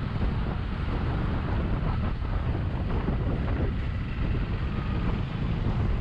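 Steady wind rumble buffeting an action camera's microphone while riding a Bajaj V15 motorcycle at speed, with the bike's running engine mixed into the rumble.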